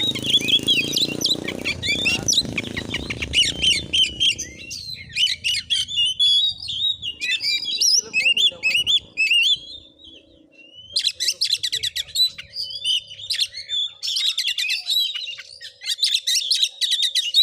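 Oriental magpie-robin (kacer) singing hard in the fast, crackling 'konslet' style: loud varied whistles mixed with rapid buzzy trills, with a short lull about ten seconds in before the song resumes.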